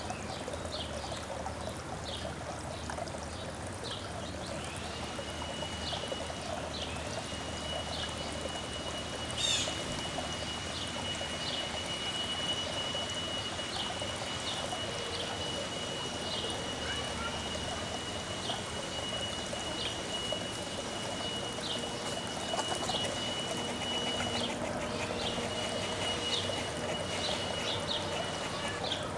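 Backyard ambience: a steady trickle of running water, with small birds chirping over and over in short high notes and a long, steady high-pitched trill held for many seconds that breaks off briefly near the end.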